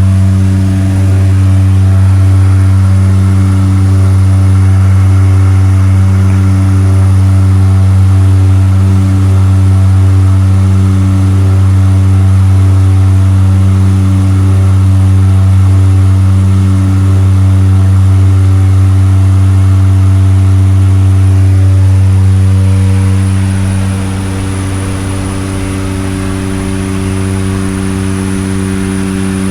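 Seaplane's propeller engines droning steadily, heard from inside the cabin, with a strong low hum; the engines ease back and the drone drops a little about three quarters of the way through.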